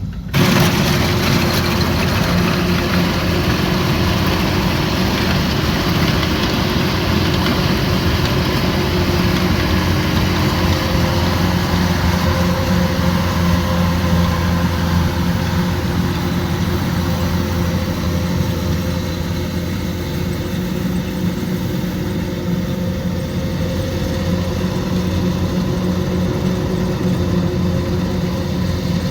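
Kubota combine harvester's diesel engine running steadily under a constant load, with an even low hum and the clatter of the machine's working parts.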